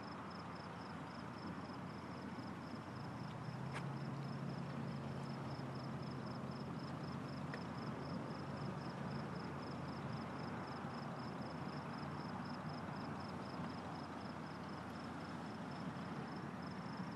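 Crickets chirping steadily, about three chirps a second, over a faint low hum and a hiss of background noise.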